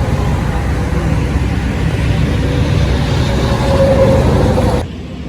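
Steady low rumble of running vehicle engines and road traffic, with a faint steady hum, dropping off abruptly near the end.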